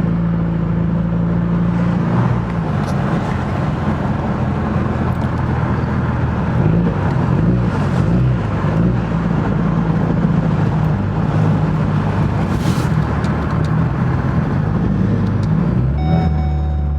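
Car engine and road noise while driving, the engine's pitch rising and falling several times as the car speeds up and shifts.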